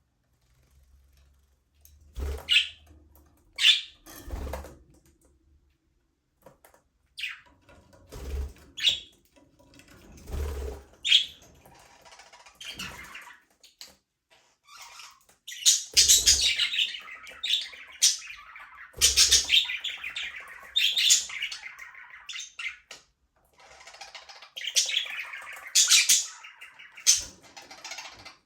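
Budgerigars chirping and squawking: scattered single calls at first, then, from about halfway, dense, almost unbroken chattering warble.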